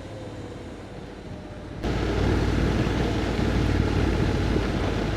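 Motorcycle running on the road, a steady low rumble with wind noise. It jumps suddenly louder about two seconds in.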